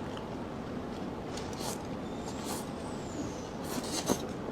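Eating at the table: a few faint clicks and small scrapes over a steady background hiss.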